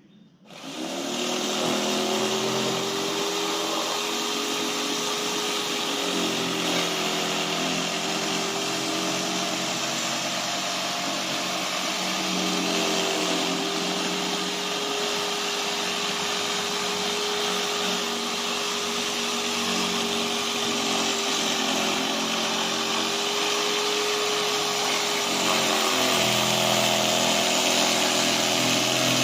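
Electric jigsaw starting up and cutting along the edge of a board, its motor running steadily with a constant hum.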